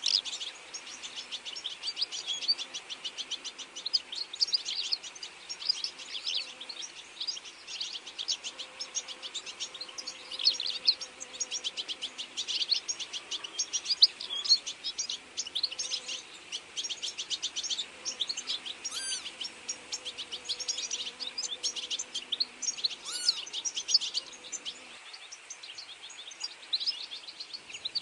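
Many small birds chirping and singing at once, a dense, continuous stream of quick high chirps with a few rising and falling whistled calls.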